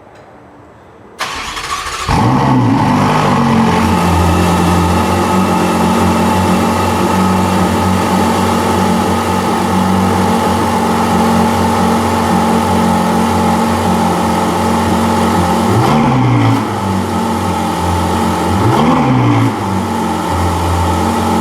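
Ferrari 488's 3.9-litre twin-turbo V8 starting: the starter kicks in about a second in and the engine catches with a flare of revs, then settles into a steady idle. Near the end it is blipped twice, each a quick rev up and back down.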